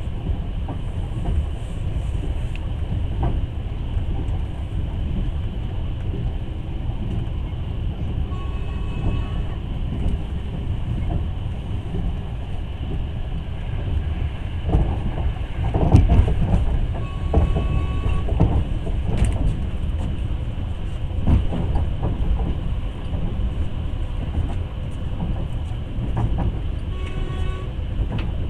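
Passenger train running along the track, heard from inside the carriage: a steady low rumble with scattered knocks from the wheels, loudest about halfway through. Three faint short high tones come at intervals.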